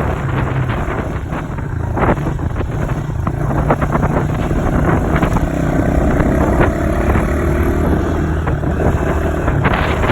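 Dirt bike engine running while the bike is ridden, with wind buffeting the microphone.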